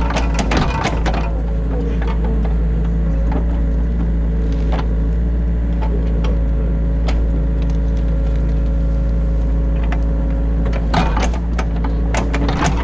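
Excavator diesel engine running steadily under work, heard from inside the cab, with clatter and knocks from the bucket and arm near the start and again about eleven seconds in.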